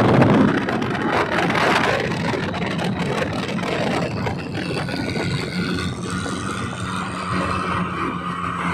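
Toyota Kijang's engine and exhaust running, louder in the first second or two and then holding a steady hum.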